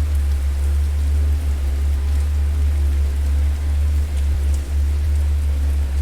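Fireplace fire crackling, with scattered small pops over a steady deep rumble.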